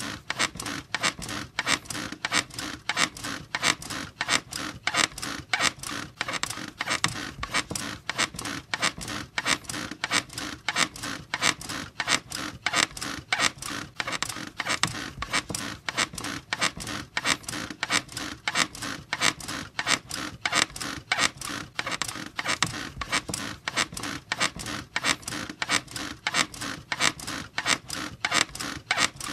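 Bed frame squeaking in a steady rhythm, about two to three creaks a second, repeating evenly throughout.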